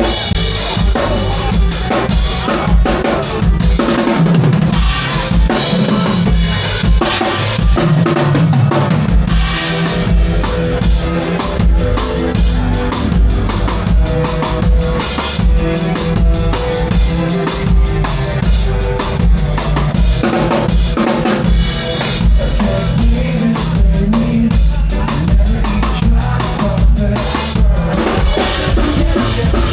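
Rock band music driven by a full drum kit, with kick drum and snare keeping a steady beat under guitars.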